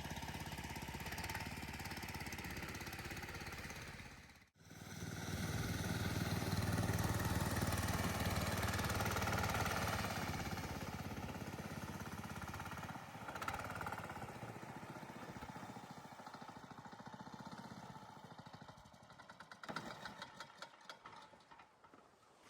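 A small engine running steadily, cut off abruptly about four and a half seconds in, then louder again and gradually fading. A series of short knocks comes near the end.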